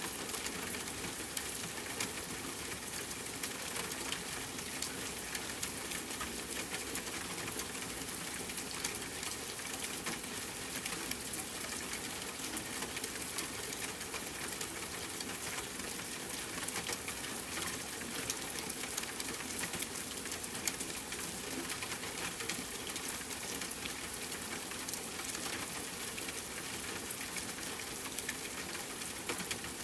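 Steady rainfall: a dense, even hiss of falling rain with many small drop ticks.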